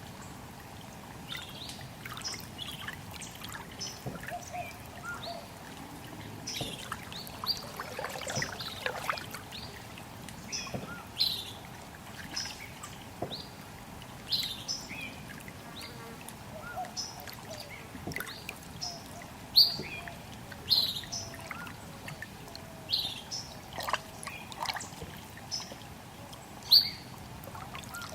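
Small birds chirping, many short sharp calls one after another with a few louder ones in the second half, over a steady trickle of running water.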